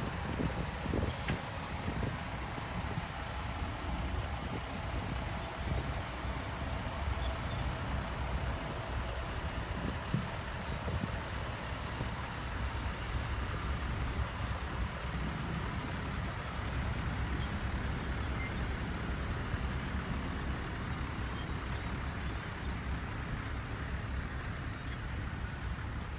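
Heavy diesel construction machinery engines running steadily with a low rumble, with a brief hiss about a second in.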